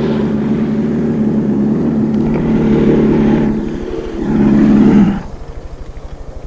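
Drag-racing funny bike engine held at high revs at a steady pitch, then revved again in a short loud burst about four seconds in. It then drops to a lumpy, pulsing idle.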